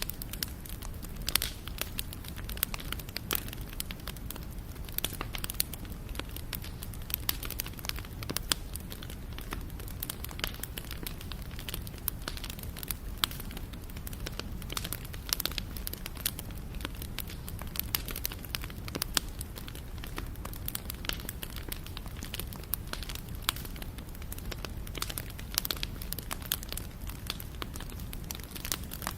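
Wood fire burning steadily, with a constant low rumble and frequent sharp, irregular crackles and pops of burning wood.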